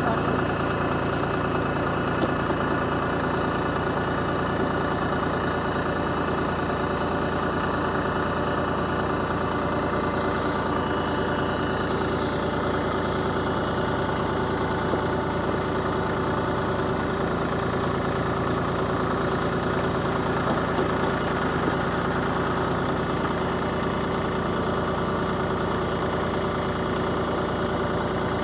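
Mahindra tractor's diesel engine running steadily at an even, unchanging speed.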